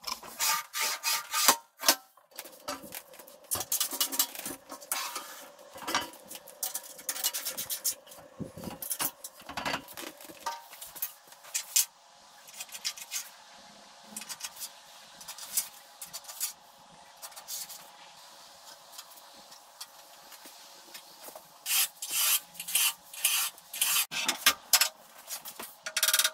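Hand filing on metal: irregular runs of rasping strokes, busy at first, sparser through the middle, and busy again near the end.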